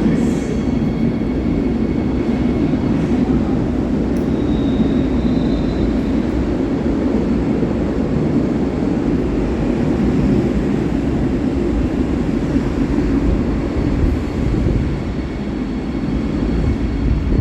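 A train moving through a station platform: a steady rumble of wheels and running gear, with a brief faint high squeal about four seconds in.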